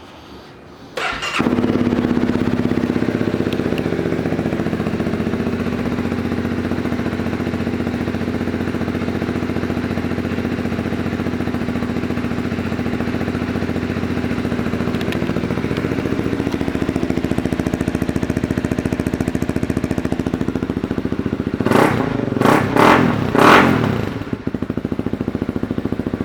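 2018 Honda CB300F's single-cylinder engine starting with its aftermarket exhaust. It catches about a second in and idles steadily, then takes a few quick throttle blips near the end before settling back to idle.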